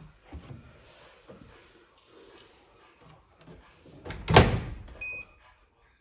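Front-loading washing machine door being pushed shut with a loud thud about four seconds in, against its newly fitted door seal. It is followed by a short electronic beep, after soft handling sounds.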